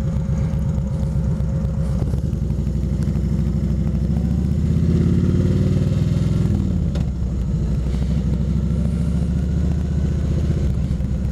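Kawasaki Vulcan 2000's big V-twin engine running under way. It climbs in pitch as it accelerates from about three and a half seconds in, drops back sharply around the middle, then runs steady.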